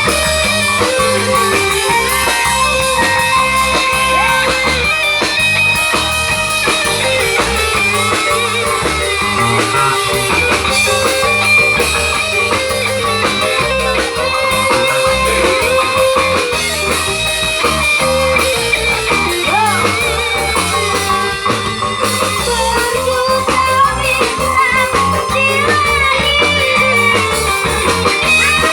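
Loud live band music driven by guitar over a steady beat, with a sung or played melody gliding above it.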